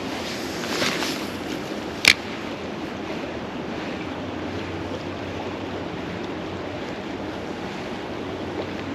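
Steady outdoor rushing noise, with a single sharp click about two seconds in.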